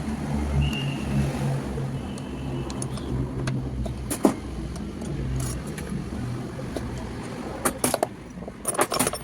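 A low mechanical rumble that shifts in pitch, with a few sharp metallic clicks near the end.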